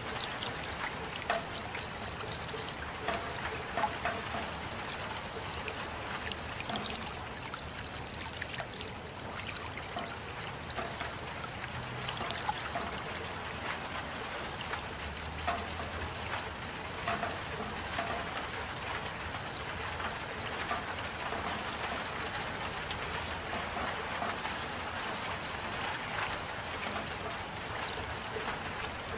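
Steady rain, with a trickle of running water and scattered drops ticking close by.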